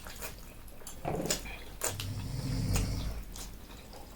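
Eating sounds: chewing and slurping noodles, with several sharp wet mouth clicks and smacks.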